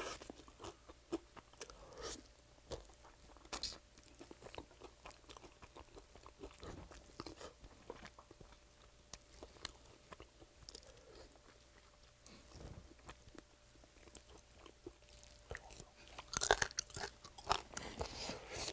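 Close-up chewing and biting of sauced fried chicken: scattered soft crunches and chewing clicks. A denser, louder flurry comes near the end.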